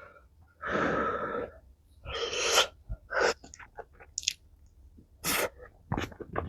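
A person's forceful, breathy blasts of air, a long one about half a second in and another about two seconds in, then soft chewing clicks and one more short blast near the end, from a person eating spicy tteokbokki.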